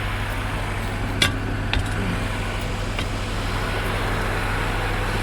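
A vehicle engine idling with a steady low hum. Two short knocks sound over it about a second and almost two seconds in.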